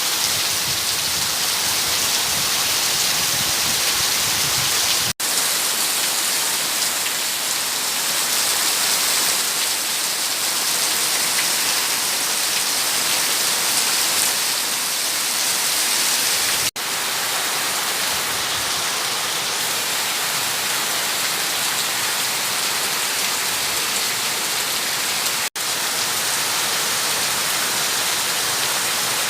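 Rain falling steadily, an even hiss. The sound drops out for an instant three times.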